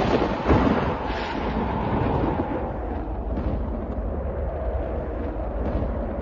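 Thunder rolling after a nearby clap, with a second sharper crack about half a second in, then settling into a long low rumble.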